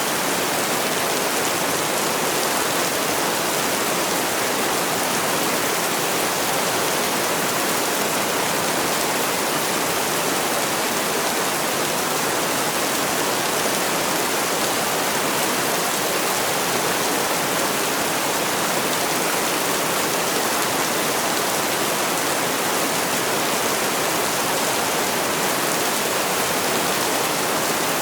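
Heavy rain falling steadily, an even hiss with no breaks or changes in level.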